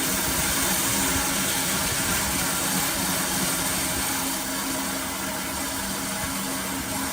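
A machine motor running steadily with a strong hiss and a low hum, without a break.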